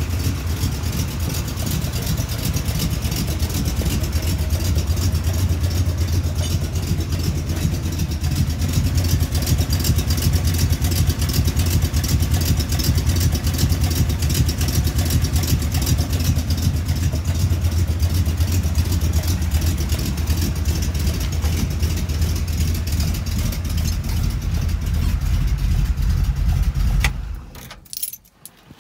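Cammed 350 small-block Chevy V8 (Summit 1103 cam, long-tube headers) idling steadily, with a little tapping that is the exhaust rattling underneath, not a rod knock. It shuts off near the end.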